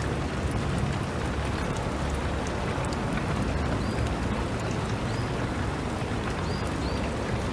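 Steady rain falling, an even hiss with a low rumble beneath it. A few faint, short high chirps come through in the second half.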